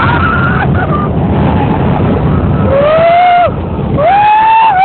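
Heavy wind buffeting the microphone during a roller coaster ride, with riders screaming twice in the second half.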